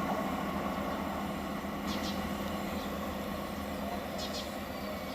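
MAN diesel railcar's engine running with a steady hum that slowly grows fainter.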